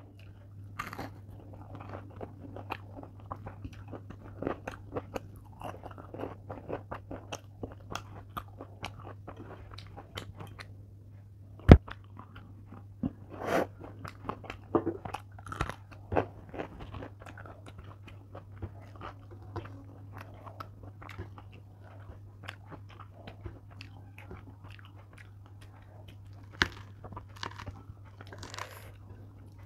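Close-miked chewing and crunching of a batter-fried bok phul (flower) fritter, with many small mouth clicks and crackles and a sharp click about 12 seconds in. A steady low hum runs underneath.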